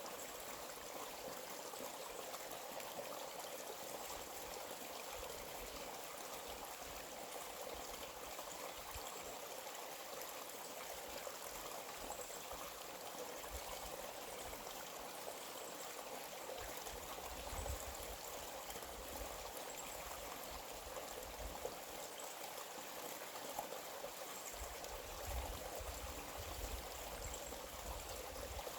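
A small stream flowing steadily, a continuous even rush of water, with a few brief low rumbles in the second half.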